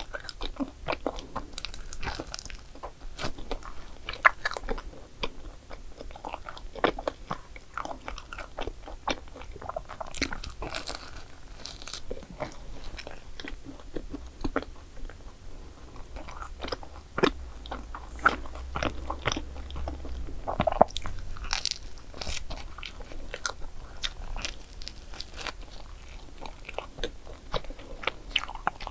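Biting and chewing a crisp croffle (croissant-dough waffle), with many sharp, irregular crunches throughout.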